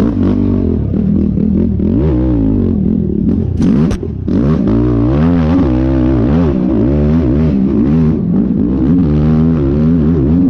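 Yamaha YFZ450R sport quad's single-cylinder four-stroke engine ridden hard. The revs climb and fall again and again with the throttle, with a brief drop about four seconds in.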